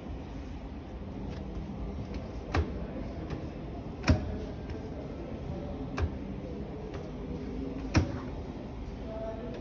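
Four sharp knocks, spaced about one and a half to two seconds apart, over a steady background hum; the second knock is the loudest.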